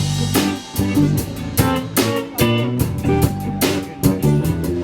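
Live band playing an instrumental passage: guitar over a drum kit keeping a steady beat.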